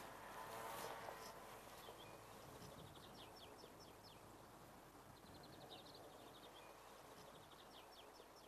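Faint bird song outdoors: three short runs of rapid high chirps, each lasting about a second or a second and a half, over a quiet rural background.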